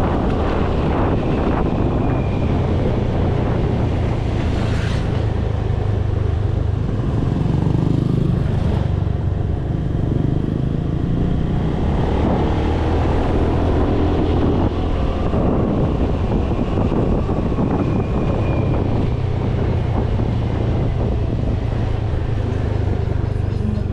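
Motorcycle engine running steadily on the move, with road and wind rush over it.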